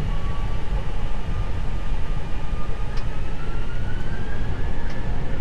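Airbus A321's IAE V2500 turbofan engines during the takeoff roll, heard inside the cockpit: a thin whine rising slowly in pitch as the engines spool up to takeoff thrust, over a deep steady rumble.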